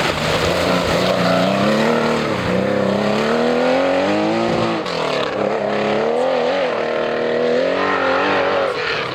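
Historic rally car's engine under hard acceleration. The engine note climbs steadily, drops sharply at a gear change about halfway through, then climbs again.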